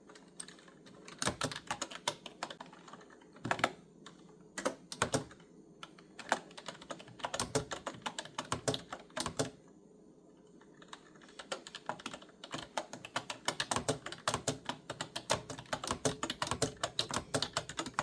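Clicky computer keyboard being typed on in quick runs of keystrokes, with a short lull about halfway through.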